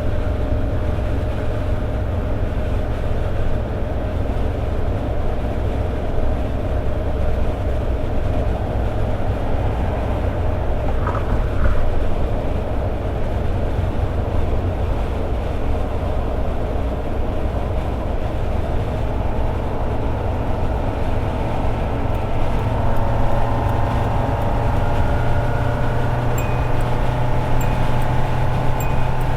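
Toyota AE86 Sprinter Trueno's four-cylinder engine holding a steady cruise on the highway, with road noise; its pitch rises slightly in the last third as it speeds up a little. A faint regular ticking comes in near the end.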